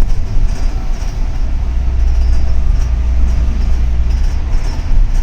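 Inside a double-decker city bus under way: a steady low rumble of engine and road noise, heavier for a couple of seconds midway.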